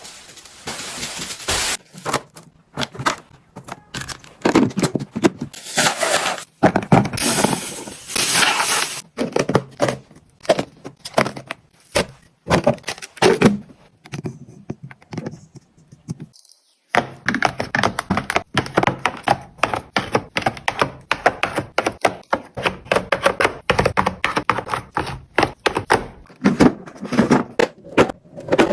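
Plastic food-storage containers and food items being handled and set down: many quick clicks, clacks and knocks, with a quieter pause about halfway through.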